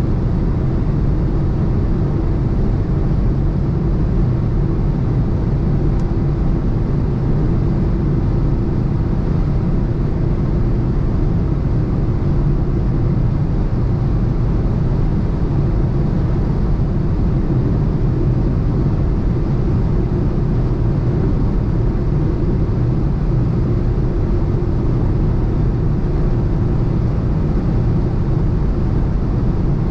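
BMW 118i's turbocharged three-cylinder engine running at a steady speed on the motorway, under a constant rush of road and wind noise, with no revving or gear changes.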